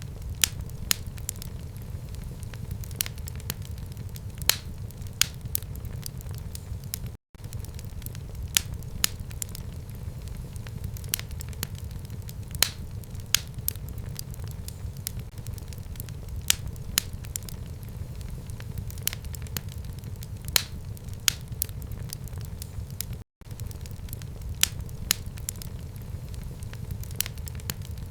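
Fire burning in a fireplace, with a steady low rumble under frequent sharp, irregular crackles and pops. The sound cuts out completely for an instant twice.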